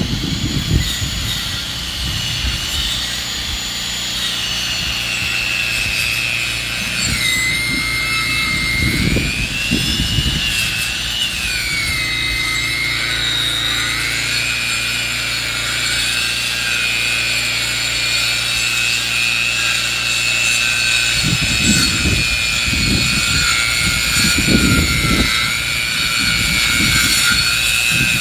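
Engine-driven sawmill cutting through a log. Its running tone drops about a quarter of the way in, wavers for a few seconds, then holds steady.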